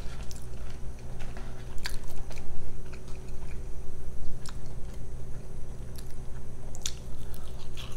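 Close-miked chewing and mouth sounds of someone eating French fries: irregular small wet clicks and smacks. A steady low hum runs underneath.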